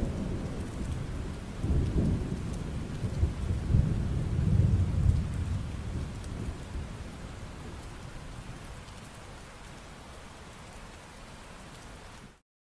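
Steady rain, with a roll of thunder rumbling loudly over the first half and dying away. The sound cuts out for a moment near the end.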